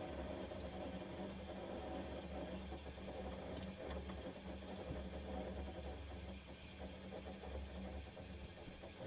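Window air conditioner's refrigerant circuit: faint refrigerant hissing and flowing through the lines over a low, steady hum.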